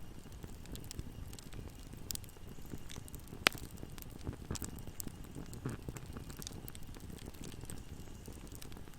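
Wood fire burning in a fireplace: a low steady rumble of flames with scattered crackles and one sharp pop about three and a half seconds in.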